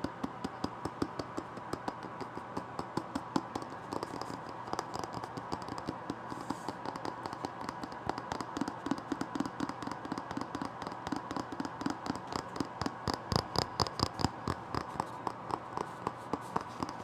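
Fingers and nails tapping and scratching on a book in quick, uneven strokes that grow denser near the end. A metronome left running ticks softly underneath.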